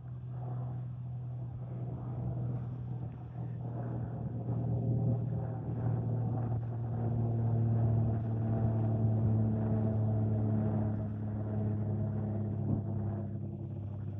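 Aircraft passing overhead: a steady, low engine drone with a humming tone that grows louder to a peak around the middle and then slowly fades.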